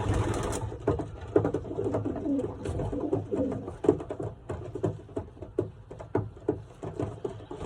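Racing pigeons cooing in the loft, with low, wavering calls, most of them in the first few seconds, over scattered short clicks and taps.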